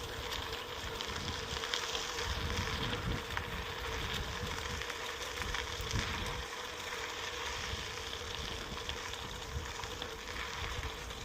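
Bicycle rolling over a rough dirt trail: steady tyre and ground noise with scattered small clicks and rattles, and a low, uneven rumble of wind on the microphone.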